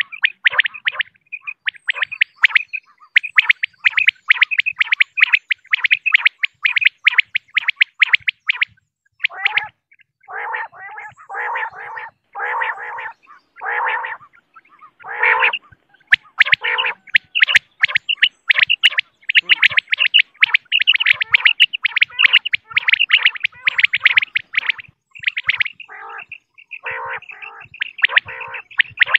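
Female common quail calling: quick runs of short, high clicking notes, broken in the middle by a string of longer, lower notes before the fast high notes return.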